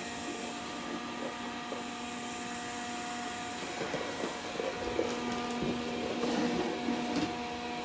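Dreame D10 robot vacuum running steadily, its motor giving a hum with several held tones over the rush of suction, with a few faint clicks partway through.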